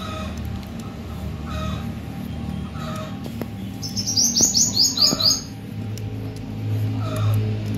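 A small bird sings a quick run of about eight high chirps a little past the middle, the loudest sound here. A softer, lower call repeats about every second and a half over a steady low hum.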